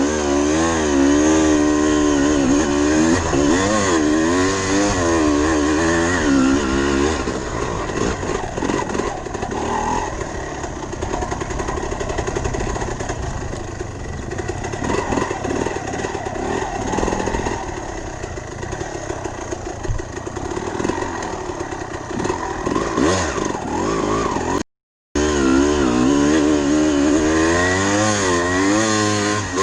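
Dirt bike engine being ridden, its pitch rising and falling repeatedly with the throttle. There is a brief break to silence about 25 seconds in.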